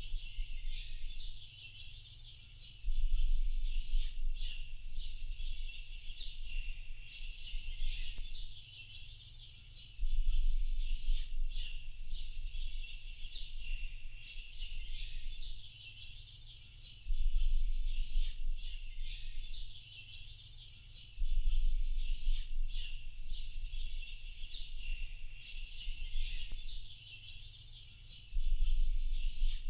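Dense chorus of small birds chirping and twittering without a break. A deep low rumble comes in suddenly about five times and dies away over a few seconds each time.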